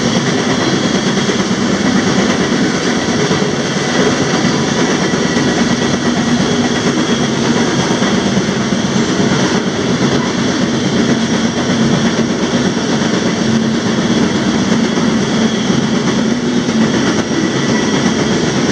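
Moving freight train heard from the end platform of a covered hopper car: a loud, steady rumble and rattle of wheels on rails and the car's running gear, unbroken throughout.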